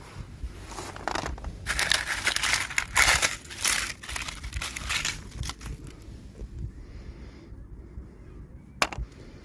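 Plastic toy packaging being crinkled and torn open by hand. A dense crackle lasts about two seconds, followed by scattered clicks and one sharp snap near the end.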